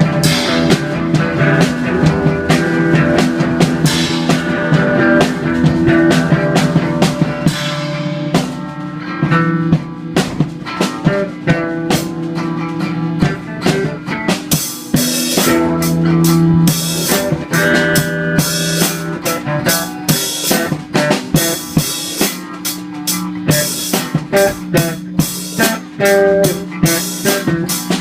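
Rock music with a full drum kit and guitar: steady drum beat with snare and bass drum under sustained guitar chords.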